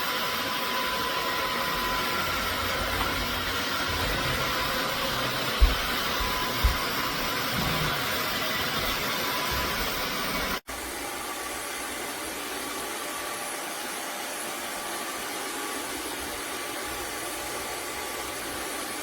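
Narwal S30 wet-dry vacuum mop running, a steady motor whoosh with a thin whine. It breaks off abruptly about halfway and carries on a little quieter. Two brief low knocks come in the first half.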